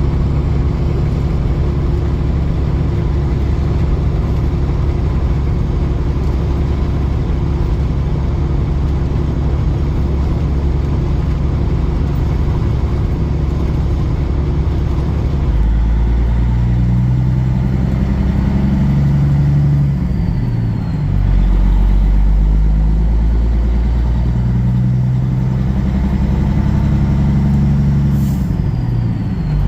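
Semi truck's diesel engine and road rumble while driving: steady at first, then from about halfway the engine note shifts up and down in pitch.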